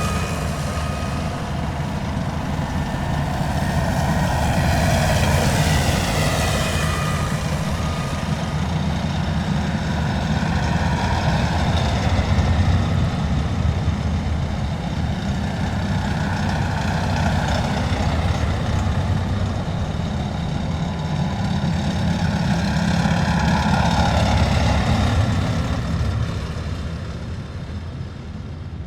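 A column of heavy military vehicles driving past one after another, their diesel engines and tyres swelling and fading as each goes by. The sound dies away near the end.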